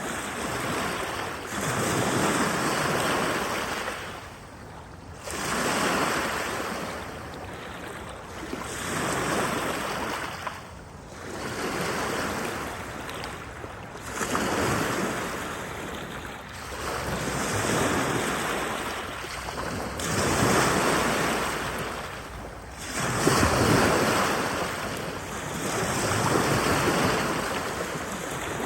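Waves washing onto a lakeshore, each swell of surf rising and fading every three seconds or so.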